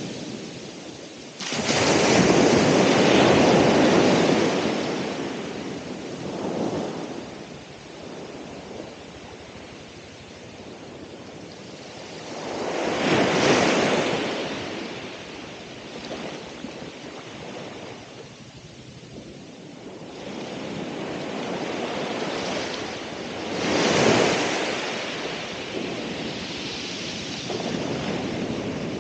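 Ocean waves breaking and washing on the shore: three loud surges about ten seconds apart, the first coming in suddenly, each ebbing back to a lower steady wash of surf.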